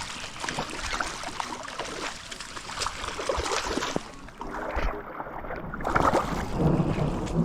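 Water splashing and trickling in the rain, with scattered knocks.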